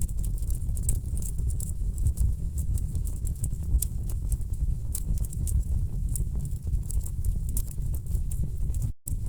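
Wood fire burning in a fireplace: a steady low rumble of flames with frequent sharp crackles and pops from the logs. The sound cuts out for an instant near the end.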